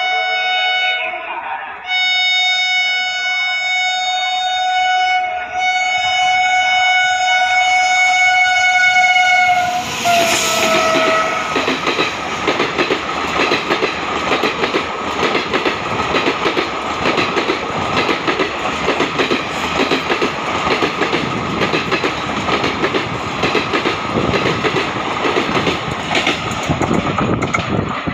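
Electric express locomotive's horn sounding a long blast, with a short break about two seconds in, then dropping in pitch as the train passes. It is followed by the coaches rushing by with a rapid, continuous clatter of wheels over the rail joints.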